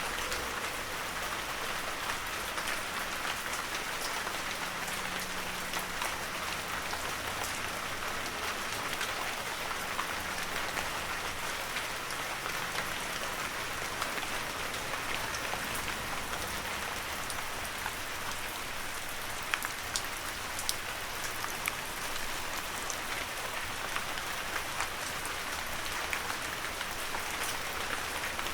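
Heavy rain falling steadily, a constant hiss with scattered sharper drop taps.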